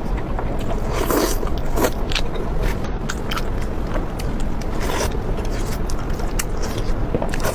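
Crunchy food being bitten and chewed close to the microphone: irregular crisp crackles, the loudest about a second in and again around five seconds, over a steady low rumble.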